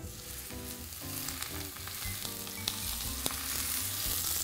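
Oil sizzling in a hot cast-iron skillet as a cluster of brown oyster mushrooms is set in stem side down to sear. The sizzle begins as the mushroom meets the pan and grows a little louder, with a few sharp pops.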